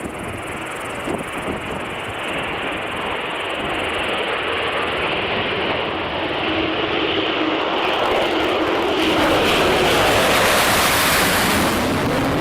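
Jet noise from a Tu-160 bomber's four afterburning NK-32 turbofans on takeoff, growing steadily louder and loudest about ten seconds in, with a sweeping, phasing quality as the aircraft passes.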